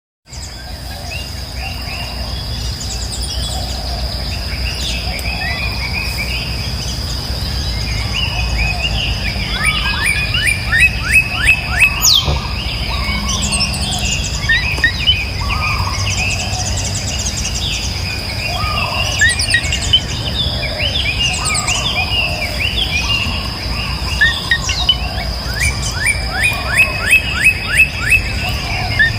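Several birds chirping and calling, with a rapid run of short sharp notes about ten seconds in and again near the end. Underneath are a steady high-pitched insect drone and a low background rumble.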